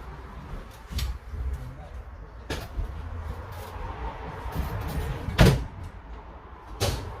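Vintage bus engine idling with a steady low rumble, heard from inside the bus, with several sharp knocks like doors or fittings banging, the loudest about five and a half seconds in.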